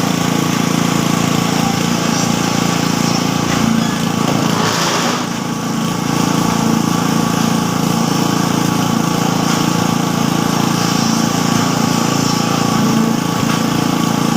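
A small engine on roadworks equipment runs steadily at a constant speed, with a brief rush of hissing noise about five seconds in.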